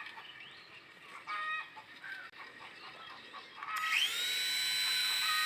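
Remote-control toy helicopter's small electric rotor motor spinning up about three-quarters of the way in: a rising whine that settles into a steady high whir. Before it come a few short clucking calls.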